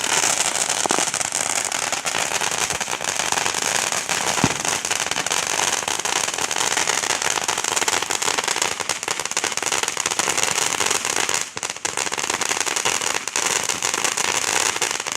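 Fireworks crackling: a dense, rapid run of small firecracker pops that goes on unbroken, with a brief lull about three-quarters of the way through and a sudden stop at the end.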